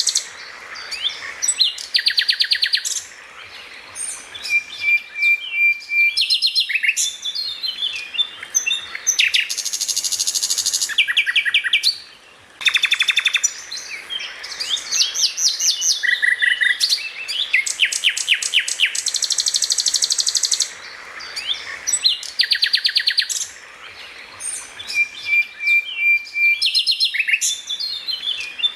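A songbird singing a fast, varied song of rapid trills, high buzzy bursts and a short level whistle. The same sequence of phrases comes round again about every 20 seconds, as in a looped training recording.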